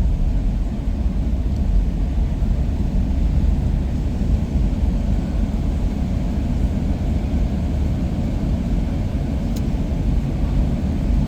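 Steady low rumble of a moving car heard from inside the cabin: engine and tyre noise while driving, with no distinct events.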